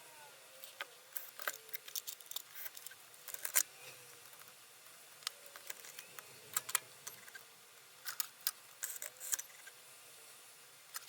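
Irregular small sharp clicks and light rattles from handling the parts of an opened-up Sony BDP-S380 Blu-ray player.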